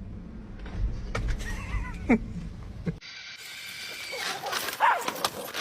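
Short animal calls, one sliding sharply down in pitch about two seconds in and another near the end, over low background noise that changes abruptly about three seconds in.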